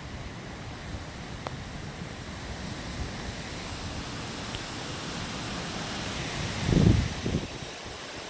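Steady wind noise ahead of a summer thunderstorm, growing slowly louder, with a short, loud low gust buffeting the microphone near the end.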